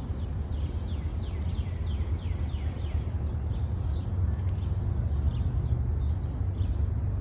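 Small birds chirping: a run of short, quick down-slurred chirps, thinning out after the first few seconds, over a steady low rumble.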